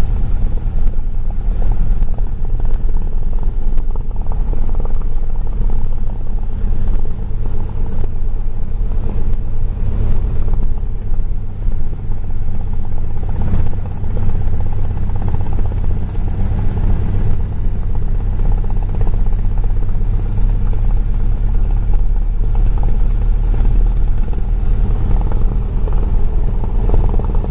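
Aircraft engine noise: a steady, loud low drone that holds an even level throughout.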